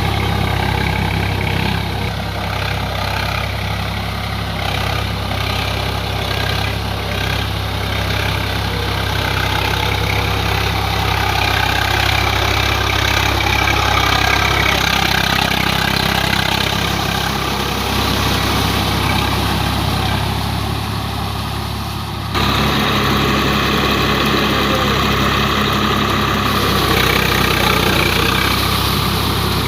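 Swaraj 744 FE tractor's three-cylinder diesel engine running steadily. The sound changes abruptly about 22 seconds in and then carries on much the same.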